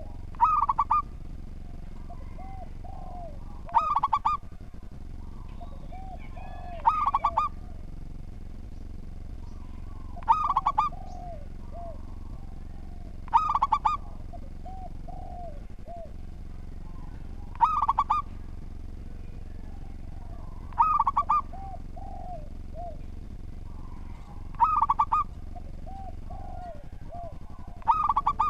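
Zebra dove (perkutut) singing its cooing song over and over, about every three and a half seconds: each phrase is a few soft low coos followed by a louder quick run of higher rolling notes. A steady low hum runs underneath.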